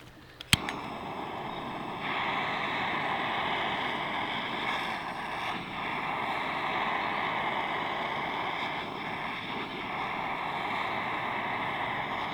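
Small nitro engine of a Team C Stoke N RC car running at high revs, fairly steady with a couple of brief dips in throttle, after a sharp click about half a second in.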